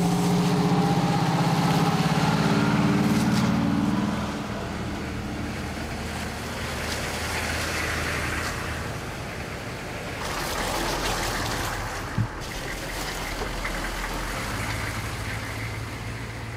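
Fire truck and National Guard vehicles pulling away, the heavy engine note rising over the first four seconds, then steadier road and tyre noise.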